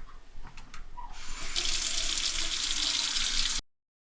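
Water tap running into a sink: a few small clicks, then a steady rush of water that starts about a second in, grows stronger, and cuts off suddenly near the end.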